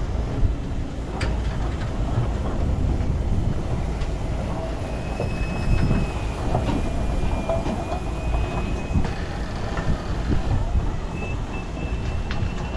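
A train rolling slowly on the rails: a low rumble with sharp clicks. A thin, steady wheel squeal comes in about five seconds in, fades out a few seconds later, and returns near the end.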